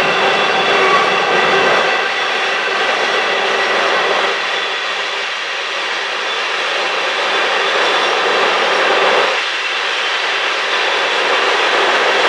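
Covered hopper cars of a Union Pacific grain train rolling over a stone arch bridge: a steady rushing of steel wheels on rail with several steady ringing tones on top, easing slightly a few times as the cars pass.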